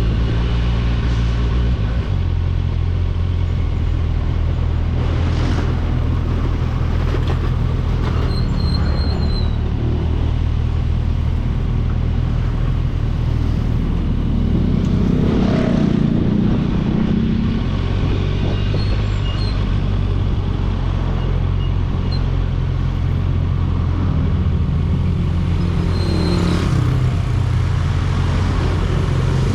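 Kawasaki Ninja 1000SX's inline-four engine running steadily on the road, with road and traffic noise, briefly a little louder about halfway through.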